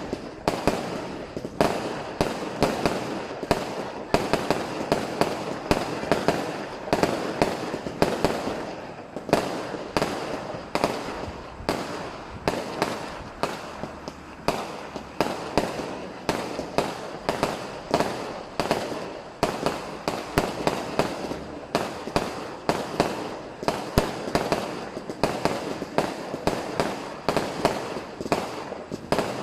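Fireworks and firecrackers going off without pause: dense, overlapping bangs and crackling, several sharp reports a second.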